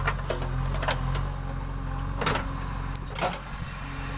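JCB backhoe loader's diesel engine running steadily, with a few short knocks about two and three seconds in.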